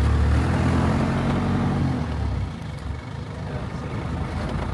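Game-drive vehicle's engine running steadily, then easing off about halfway through before picking up again.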